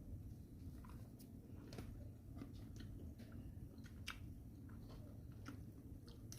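Faint eating sounds: chewing, with a few short, light clicks scattered through, over a low steady hum.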